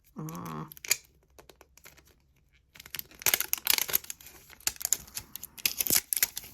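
Thin plastic packaging crinkling and tearing as tiny miniature pieces are unwrapped. There is a brief hummed voice sound at the start, then a few clicks, then a rapid run of crackles from about three seconds in.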